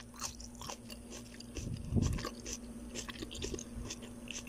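A person chewing a mouthful of raw red onion, with soft crunches and small mouth clicks and a louder crunch about two seconds in.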